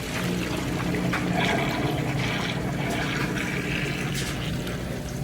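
Kenmore Series 100 high-efficiency washing machine filling with water for its rinse cycle: a steady rush of incoming water over a low hum.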